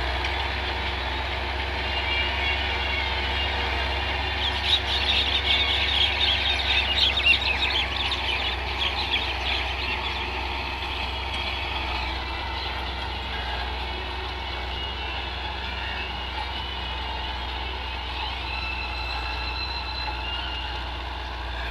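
Belarus tractor engine running steadily with a low drone. Between about five and ten seconds in, a burst of high, warbling squeaks sits over it.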